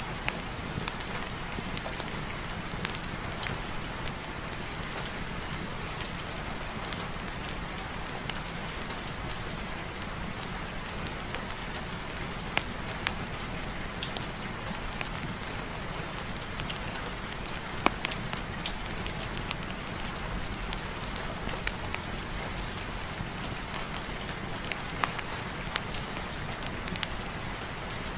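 Steady rain with scattered sharp crackles and pops from a wood fire burning in a fireplace.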